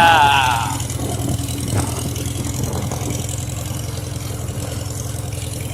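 1951 Farmall H's four-cylinder engine running steadily as the tractor travels down the road, with a brief spoken "yeah" at the start.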